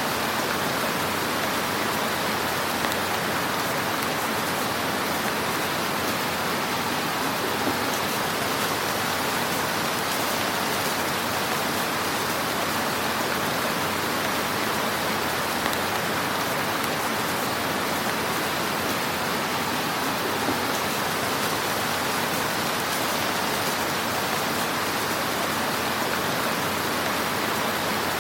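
Wood fire crackling in a fireplace: a steady, even hiss with a few faint pops.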